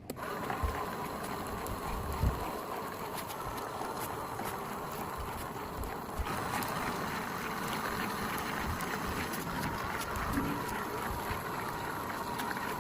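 Small DC motor running steadily with a faint whine, with scattered clicks and rattles, starting abruptly.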